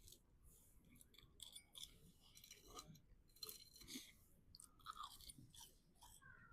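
Faint close-up chewing of food, with a run of irregular soft crunches.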